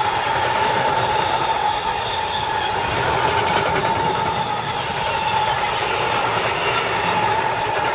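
Train running past on the main line, its steady rolling noise carrying a continuous high-pitched tone from the wheels.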